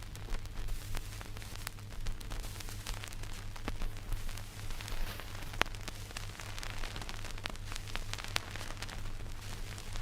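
Steady hiss and crackle over a low electrical hum, with scattered sharp clicks: background noise of the recording, with no music playing yet.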